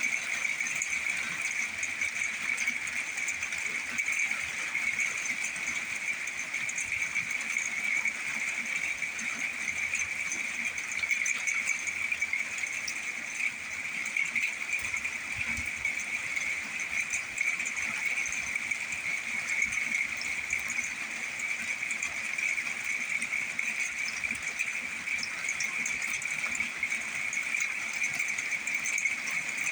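A steady, high-pitched chorus of calling animals, one unbroken shrill band of sound with a fainter, higher band above it.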